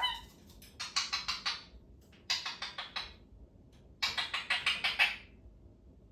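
A parrot making three bursts of rapid clicking, each about a second long at roughly ten clicks a second.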